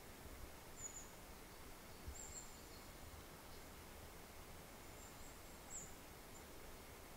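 Quiet forest ambience with faint, very high-pitched bird calls, a few short chirps spread through it.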